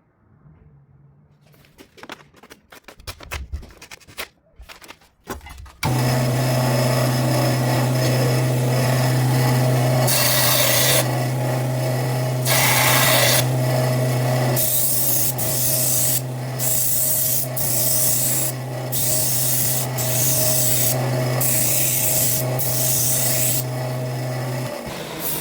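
Electric sharpening machine: after a few handling clicks its motor comes on about six seconds in with a steady hum, while a blade is ground against the abrasive in a series of hissing passes. The motor cuts off shortly before the end.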